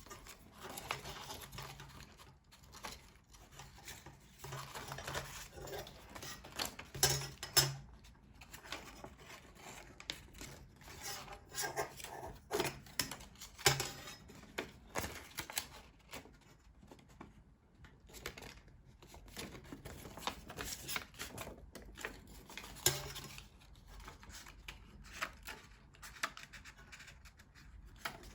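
Printed card parts of a paper model being bent and folded into shape, the stiff paper rustling and crackling in irregular bursts with scattered sharp clicks.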